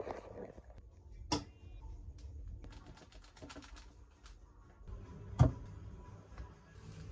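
Kitchen items being handled and set down: a patter of light clicks and taps, with two sharper knocks, one about a second and a half in and a louder one about five and a half seconds in.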